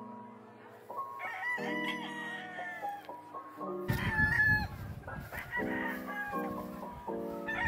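Several gamecocks crowing one after another, their calls overlapping, with a low rumble about four seconds in.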